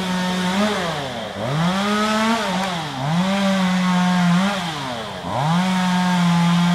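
Two-stroke chainsaw repeatedly revved up to full throttle, held there for a second or two, then let back down, three times over.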